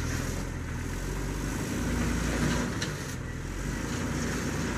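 Jeep engine running at low speed while crawling over rocks, its rumble swelling briefly about two seconds in, with a couple of faint knocks around the middle.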